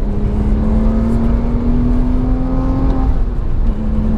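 Porsche 911 (997) Carrera's naturally aspirated flat-six pulling under full throttle, its note climbing slowly in pitch. About three seconds in the note drops and falters as the driver shifts up on the six-speed manual, then it pulls steadily again.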